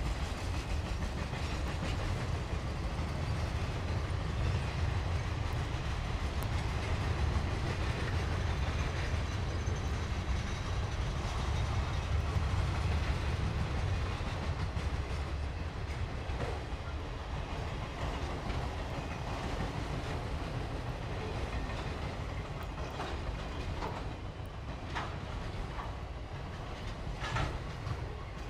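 Freight train cars, mostly autoracks, rolling past: a steady low rumble of steel wheels on rail, with sharp wheel clicks coming more often in the last few seconds.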